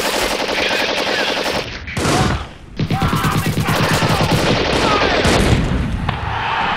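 Rapid bursts of automatic gunfire, a sustained fusillade of battle sound effects, with a short break about two and a half seconds in. Near the end the firing stops and a steady noise takes over.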